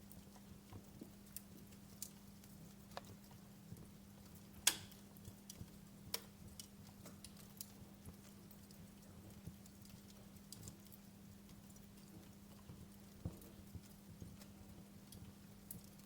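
Wood fire in a fireplace crackling, with irregular pops and snaps, the sharpest about four and a half seconds in and another near six seconds, over a faint steady low hum.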